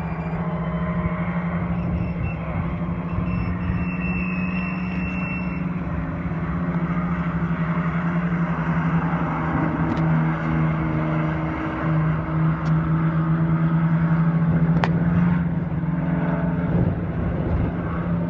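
Race mini trucks' engines running around the track as a pack, a steady drone that swells as they come closer about two-thirds of the way in, with a few sharp clicks.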